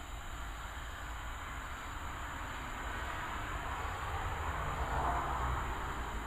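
Thunderstorm ambience: a steady wash of storm noise with a low rumble underneath, swelling and then easing about four to five seconds in.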